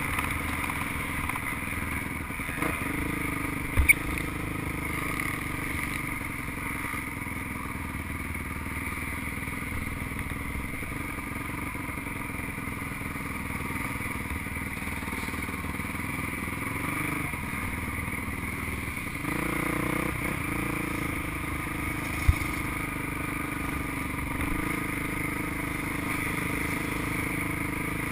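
Motocross bike engine running at low, steady throttle while riding slowly, with two sharp knocks, one a few seconds in and one about three quarters of the way through.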